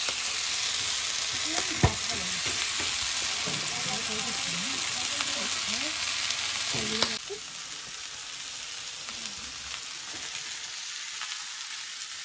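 Marinated chicken sizzling as it fries on a hot tava (flat griddle), a dense steady hiss. There is a single sharp knock about two seconds in, and the sizzle drops quieter about seven seconds in.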